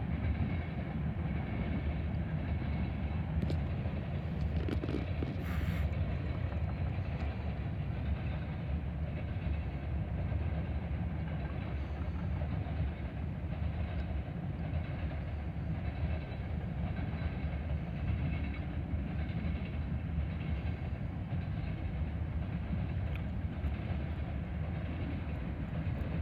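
Tank cars of a freight unit train rolling past, the steady rumble of steel wheels on rail with faint clacking over the rail joints and crossing. The tank cars are likely empty.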